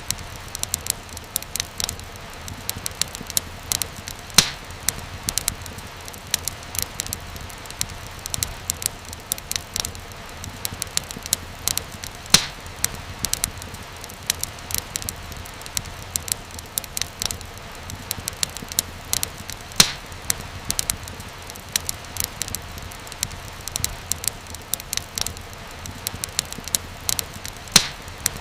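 Wood fire burning in a fireplace, with a steady low rumble and frequent sharp crackles and pops, the loudest pops a little after 4 s, at about 12 s, near 20 s and near the end.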